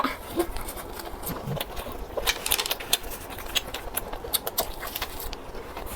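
Close-miked chewing and mouth noises from a person eating a fried tofu puff: an irregular run of small clicks and smacks.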